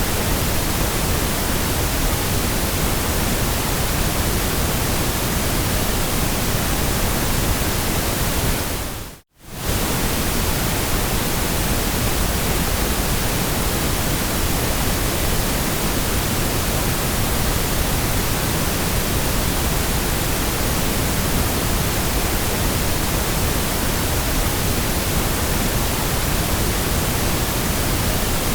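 Steady white noise: an even, unchanging hiss across all pitches. It briefly fades out to near silence and straight back about nine seconds in.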